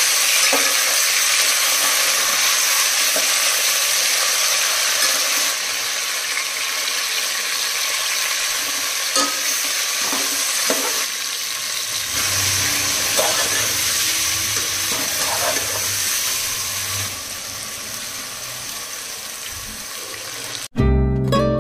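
Chicken pieces sizzling as they fry in hot oil in a metal pot, with a metal spatula knocking and scraping against the pot as they are stirred. The sizzle eases somewhat later on, and music starts suddenly near the end.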